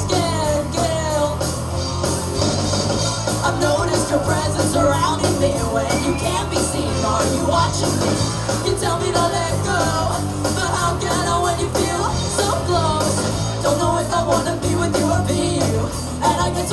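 Live rock band playing a passage without lyrics: a steady drum beat with cymbals, a bass line stepping under it, and a winding melody over the top.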